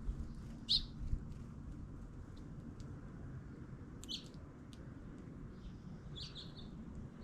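Small birds giving short, high chirps a few times, about a second in, around four seconds and again near the end, over a steady low rumble.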